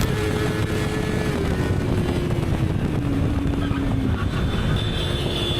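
Motorcycle running on the move under heavy wind rush, its engine note sagging a little in pitch through the middle and then holding steady.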